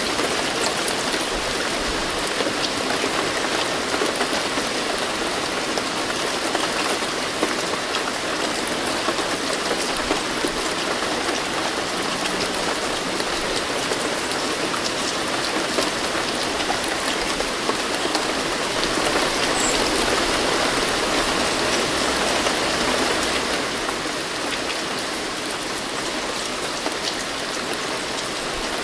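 Steady rain falling, a dense even hiss with scattered drop ticks, swelling a little for a few seconds past the middle.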